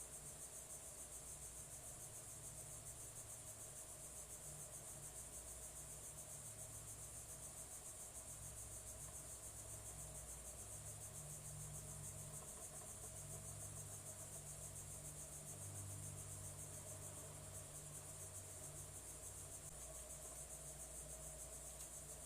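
A steady, high-pitched insect chorus, typical of crickets trilling, with a faint low hum underneath.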